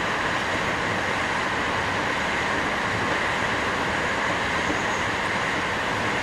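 JR West 321 series electric train heard from inside the car while running: steady wheel-on-rail running noise and rush at an even level, with no rise or fall in pitch.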